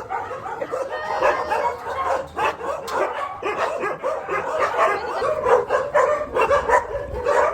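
Several shelter dogs barking, yipping and whining over one another without pause, excited at the prospect of going for a walk.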